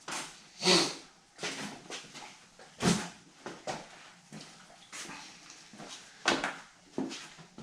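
A dog making a string of short, irregular sounds about a second apart.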